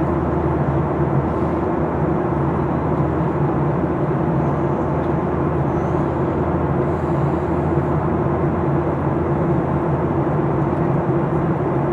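Steady engine and airflow noise inside the cabin of a Boeing 737-800, its CFM56-7B turbofans running with a constant low drone through the rush of air.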